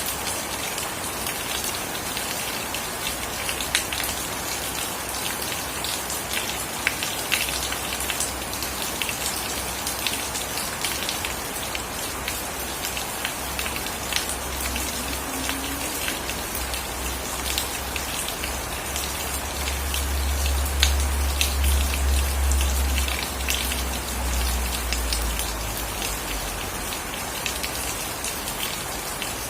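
Steady rain falling, with distinct drops striking close by. A low rumble builds beneath it and is loudest about two-thirds of the way through.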